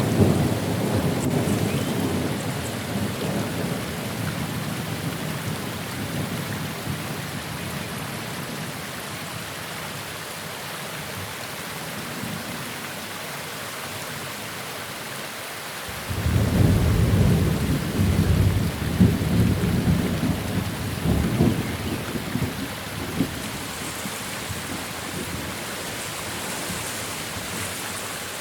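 Steady rain falling with rolling thunder: a rumble dies away over the first several seconds, and a second peal breaks suddenly about halfway through and rolls on for several seconds before fading.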